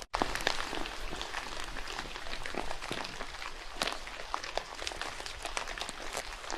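Steady rain falling, with many close drops ticking sharply on leaves and ground over an even hiss. The sound cuts out for a split second just after the start, then resumes.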